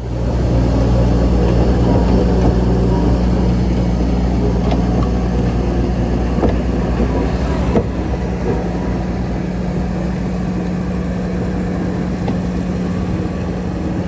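Diesel engine of a heavy earthmoving machine running steadily with a low hum, with a few faint knocks; it drops a little in level after a sharper click about eight seconds in.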